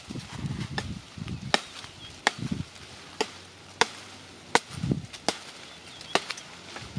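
Knife chopping on a cutting board: about eight sharp chops at an even pace, a little under a second apart, with duller thuds in between.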